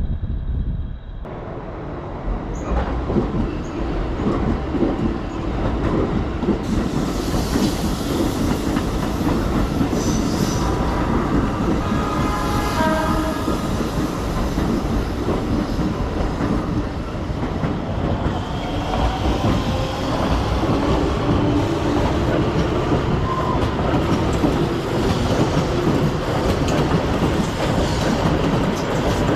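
A Keikyu electric commuter train passing at close range, its wheels clattering over the rail joints. The noise swells in about a second in and stays loud throughout.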